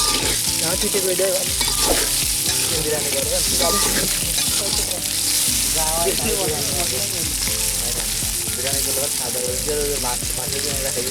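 Khichuri frying in a hot pan, a steady sizzle, while it is stirred.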